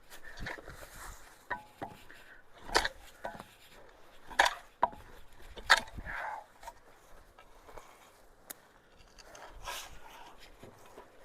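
A handful of sharp wooden knocks and clatters with rustling and scraping between them: sticks and logs being pulled and moved to clear a clogged culvert.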